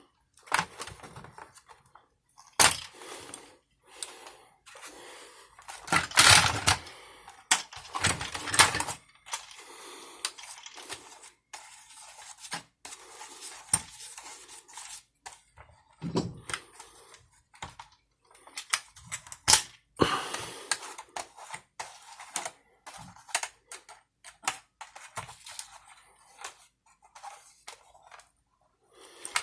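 Irregular clicks, taps and clatter of small hard parts and tools being handled, with a few longer scraping or rustling noises in between.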